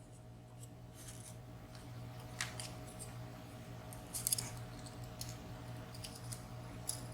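Faint, scattered light clicks of small metal lock parts being handled as driver pins and springs are drawn out of a padlock's pin chambers, a little cluster of them about four seconds in, over a steady low hum.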